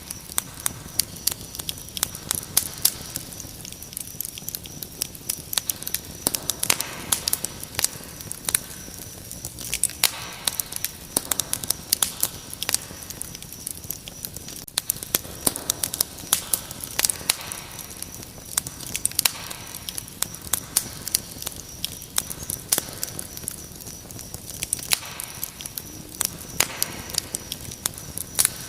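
Wood fire crackling with frequent sharp pops and snaps, over a steady high cricket chirping.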